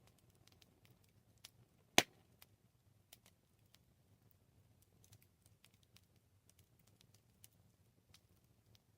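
Wood campfire crackling: scattered small snaps and ticks, with one loud pop about two seconds in, over a faint low rumble of the burning fire.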